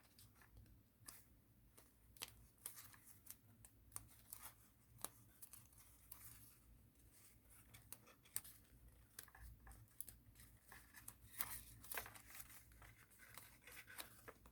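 Faint rustling and crinkling of origami paper being handled and creased by hand, in scattered short clicks and rustles that grow busier a little past the middle.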